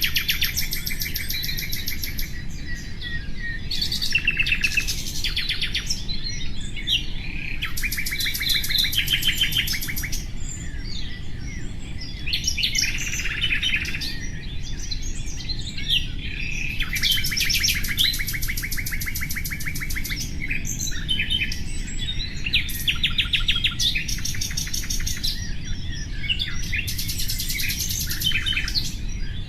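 Common nightingale singing: phrase after phrase of rapid, evenly repeated high notes and trills, each one to three seconds long with short pauses between, over a low steady background hiss.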